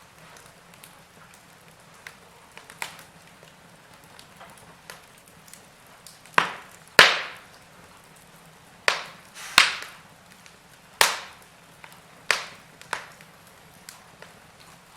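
Burning wood logs crackling in a fireplace: a faint steady hiss with scattered small pops, then a cluster of sharp, louder snaps in the second half.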